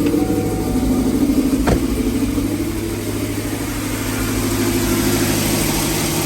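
Cammed GMC Sierra 5.3 V8 with long-tube headers idling just after starting, slightly easing in loudness during the first few seconds, with a single click about two seconds in. It runs with no exhaust leak, the header leak cured by new header gaskets.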